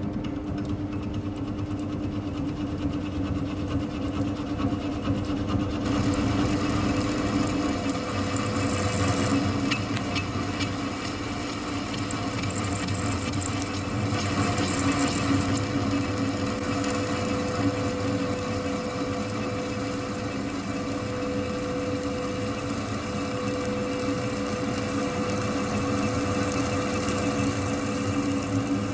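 Large engine lathe running, its carbide insert turning down the end of a hydraulic cylinder rod, with a steady machine hum. About six seconds in, a brighter hissing cutting noise comes in and continues.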